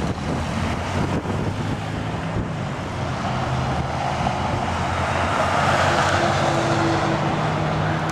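A motor vehicle's engine running steadily, with a hiss of road or wind noise that grows a little louder midway.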